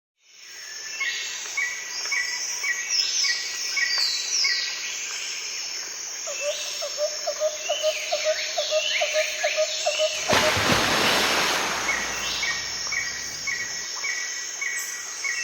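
Several birds singing and calling, with repeated short chirps and quick whistled sweeps. A fast run of low notes, about four a second, comes in about midway, and a loud rush of noise cuts across the birdsong for about two seconds near the end.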